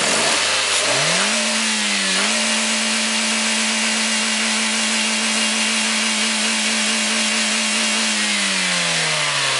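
Toyota Corolla 1.6 VVT-i sixteen-valve four-cylinder engine revved by hand at the throttle linkage. It rises quickly to its rev limiter at about 6,600 rpm, dips briefly about two seconds in, and is held steady at the limiter for about six seconds, then drops back in revs near the end.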